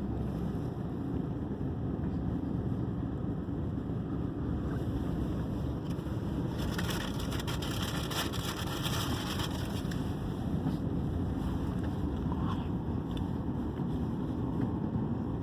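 Steady low rumble of a vehicle's engine and tyres on a slick, snow-covered road, heard from inside the cabin with four-wheel drive engaged. A higher hiss joins for about two seconds around the middle.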